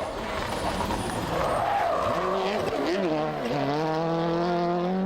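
Turbocharged World Rally Car launching from a stage start. For the first two seconds there is a noisy rush of spinning tyres. Then the engine note rises, dips twice at quick gear changes about three seconds in, and climbs steadily again.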